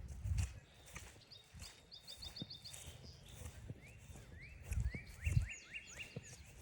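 Footsteps on a forest trail, the heaviest thuds about five seconds in, while songbirds sing: a quick run of high notes about a second in, then a steady series of rising notes from about four seconds.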